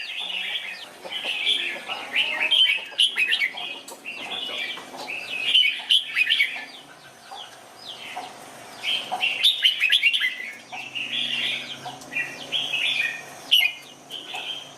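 Red-whiskered bulbul song: short phrases of quick, sliding chirping notes, one after another with brief pauses between them.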